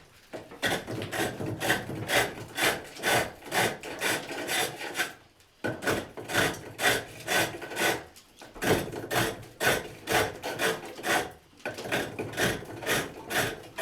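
Hook tool cutting wood on a pole lathe: rhythmic shaving strokes, one with each turn of the work, about two to three a second, with a few short breaks.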